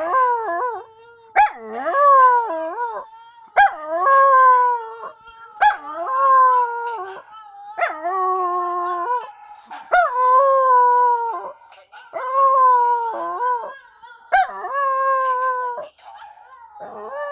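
A dog howling, a series of long howls with a new one about every two seconds. Each starts sharply and is then held, sinking slightly in pitch.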